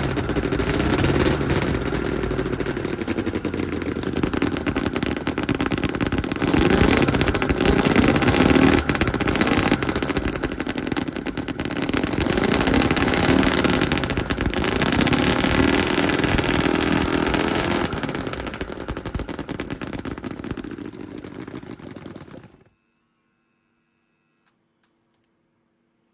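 Spark-ignition scale-model V8 engine of about 90 cc running with a rapid clatter, revved up and down several times. It cuts off suddenly near the end.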